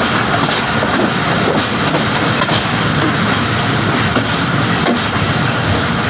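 Passenger express train running steadily on the track: a continuous rumble of wheels and carriages, with faint clicks of the wheels over rail joints about once a second.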